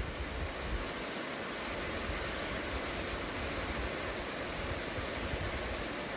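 Steady rain falling, an even hiss with no distinct thunderclap.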